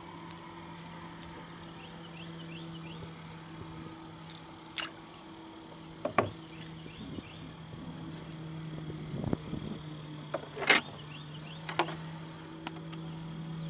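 A steady low engine hum runs throughout, with five or six sharp knocks and clicks scattered through it.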